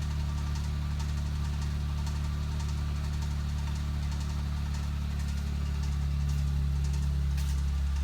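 Suzuki Alto Works' three-cylinder engine idling with the intermittent abnormal noise its owner is trying to record, a noise that goes away once it has quieted for the day. A steady low drone with faint repeated ticks above it, growing a little louder about six seconds in.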